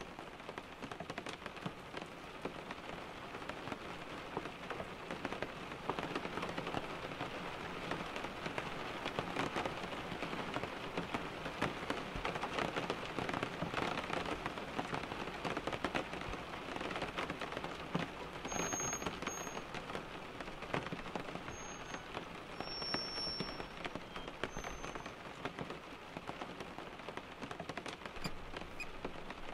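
Steady rain falling on a surface: an even hiss full of tiny ticks, swelling slightly around the middle.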